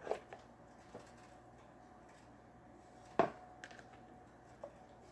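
A few scattered light knocks and clacks of kitchenware, with one louder clack about three seconds in, as food is handled and moved into a bowl.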